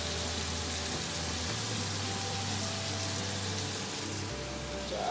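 Rice stick noodles and prawns frying in a hot pan, a steady sizzle, under background music with a low bass line.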